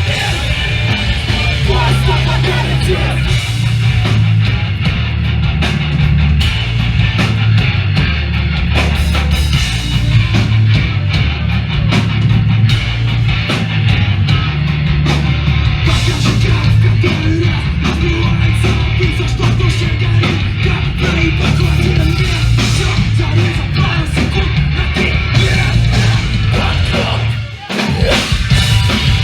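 Live hardcore punk band playing loud, with distorted electric guitars and a drum kit. The music cuts out briefly near the end, then comes back in.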